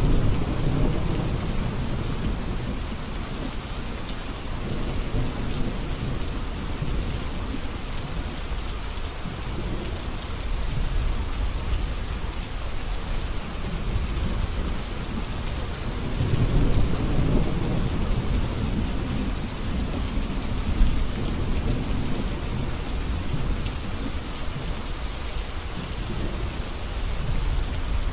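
Steady rain falling, with rolls of distant thunder rumbling low at the start and again a little past halfway.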